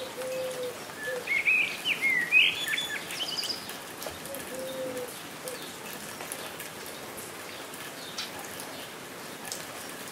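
Steady rain falling, with faint drip ticks. A songbird sings a short burst of chirps about a second in, and a low cooing call comes twice.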